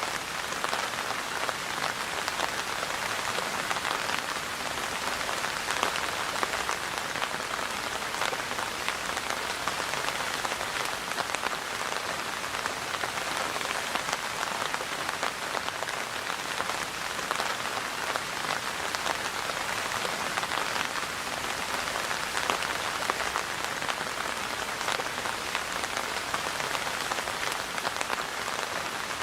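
Steady rain falling: an even hiss of many small drop hits that holds at the same level throughout.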